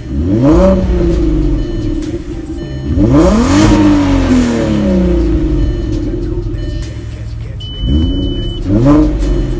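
Volkswagen Golf R32's 3.2-litre VR6 engine revving in repeated rising pulls as the car accelerates, the pitch climbing and then dropping away: once just after the start, again about 3 seconds in, and twice near the end.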